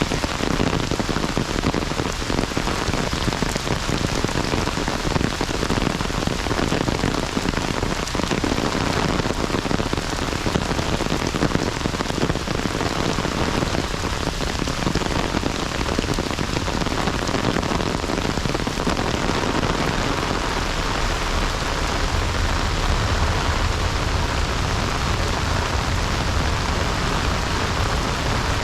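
Heavy rain falling steadily, a dense patter of drops, with a low rumble coming up underneath in the last several seconds.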